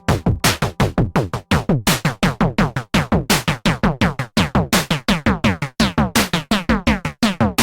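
Electronic music: a fast, steady run of drum-machine hits, several a second, each dropping quickly in pitch.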